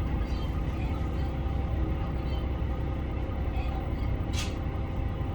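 Chizu Express HOT7000 series diesel railcar: a steady low rumble of engine and running gear, with a short sharp click about four seconds in.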